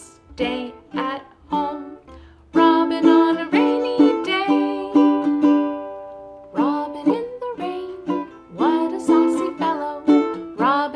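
A woman singing a children's song over a plucked string instrument, with one chord left ringing and fading midway.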